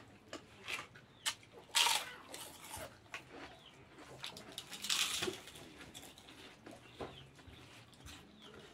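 Close-up eating sounds: chewing and mouth smacking while eating rice, pork and papad by hand, with scattered small clicks and two louder noisy crunches about two and five seconds in.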